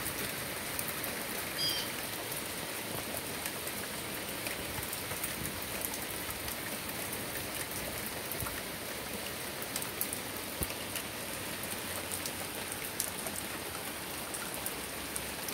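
Steady rain falling, with many small drop ticks. There is one short high chirp about two seconds in.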